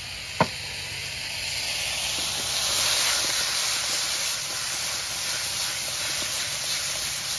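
Opo squash pieces sizzling in a hot wok as they wilt and brown, the frying hiss swelling about two seconds in and then holding steady. A single sharp knock about half a second in.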